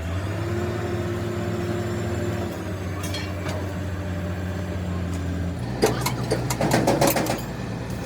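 A steady engine hum, then a burst of knocks and clatter about six seconds in.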